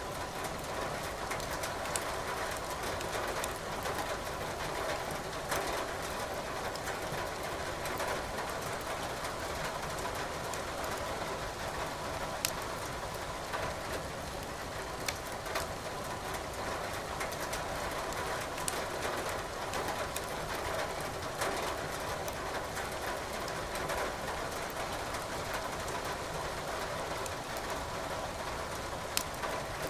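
Steady rain hiss with sparse sharp crackles of burning firewood in a fireplace.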